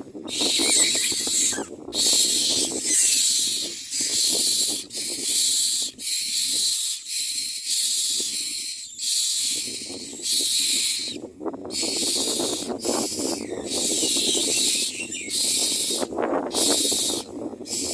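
Common myna nestlings begging: harsh, hissing rasps repeated about once a second, over a lower crackling noise.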